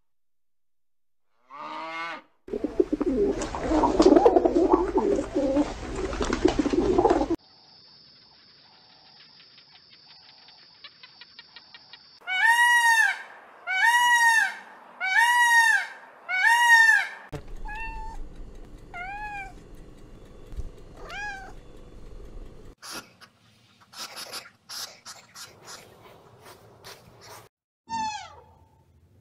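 A string of different animal sounds. The loudest and clearest is a peacock calling four times, about a second and a half apart, in the middle. Around it are a loud noisy stretch near the start, a thin high steady tone, softer calls, a run of sharp clicks and falling calls near the end.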